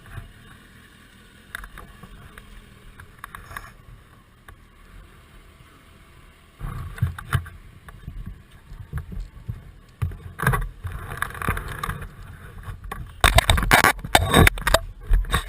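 Rumbling, buffeting wind and road noise on the microphone of a camera riding on a moving motorcycle, low at first, then much louder and rougher from about seven seconds in, with heavy gusts near the end.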